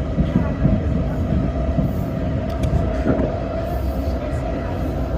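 Electric commuter train running along the line, heard from inside the car: a steady rumble of wheels on rail with a constant tone held over it and a few light clicks about midway.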